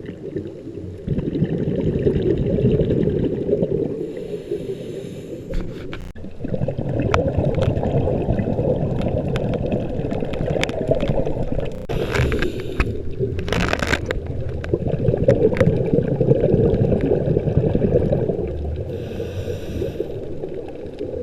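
Scuba regulator breathing heard underwater: long bubbling rushes of exhaled air, broken every several seconds by short hissing inhalations through the regulator.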